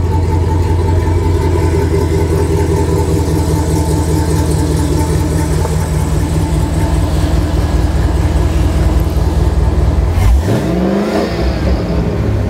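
Chevrolet LT4 supercharged 6.2-litre V8 idling steadily just after start-up. About ten seconds in it is revved once, the pitch rising sharply and settling back to idle.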